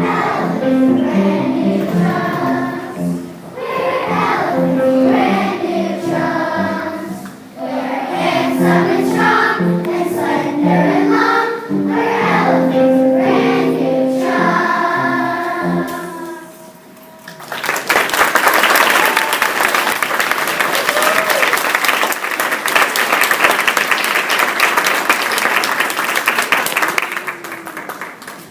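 A group of children singing a song together, then an audience clapping from about 17 seconds in for some ten seconds before it fades.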